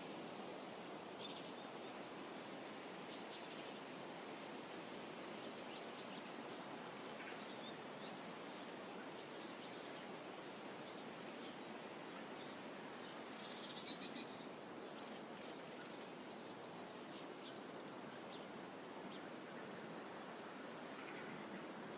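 Small songbirds giving short, scattered chirps over a steady soft outdoor hiss. The chirps come most thickly in two clusters, about two-thirds of the way in and again shortly after.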